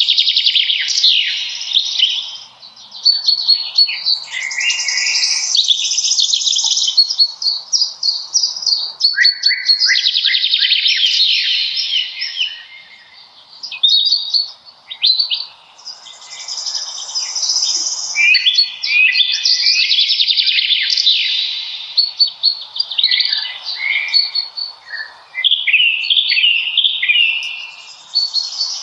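Several songbirds singing at once in a spring birch forest, their trills and chirps overlapping almost without a break, with a short lull about halfway through.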